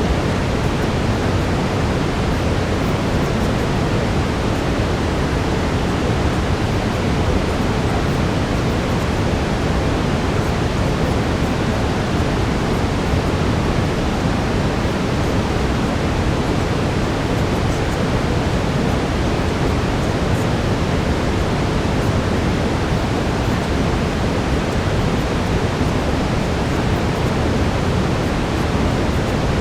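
Steady brown noise: an even, unbroken rushing hiss, heaviest in the low end and fading toward the treble, with no change in level.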